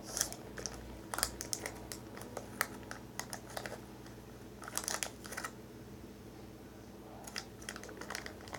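Irregular small clicks and crinkles from jelly slime being squeezed and worked out of its plastic packaging by hand.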